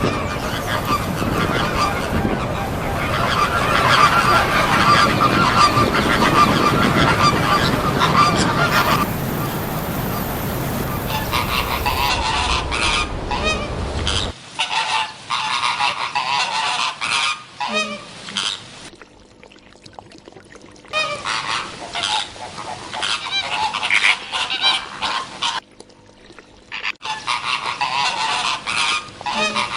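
A flock of greater flamingos honking with goose-like calls. A dense, continuous chorus gives way after about fourteen seconds to separate calls with short pauses between them.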